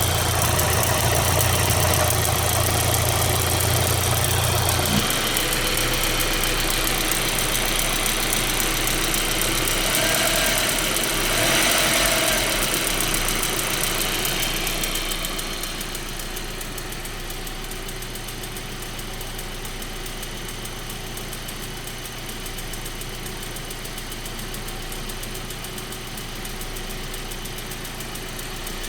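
Turbocharged 1.8T four-cylinder engine idling with a rapid ticking, the tick its owner is trying to trace. The sound gets quieter about halfway through.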